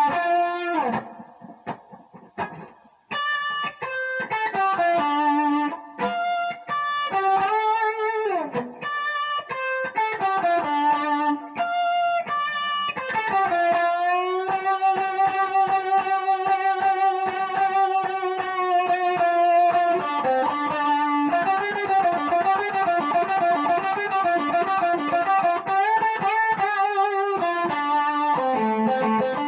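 Electric guitar playing a blues lick in D on the minor pentatonic, picked notes with string bends, a short pause near the start, then a long note held with vibrato in the middle and more wavering, bent notes after it.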